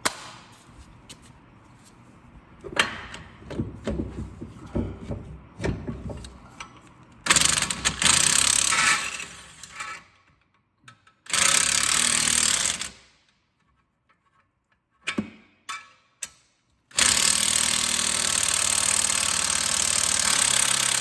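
Impact wrench hammering the 21 mm nut of a strut-to-spindle bolt tight, in three bursts: about three seconds, then a shorter one, then a longer one of about four seconds near the end. Before it come a few clanks of wrench and socket on the bolt, and a couple of sharp clicks between the bursts.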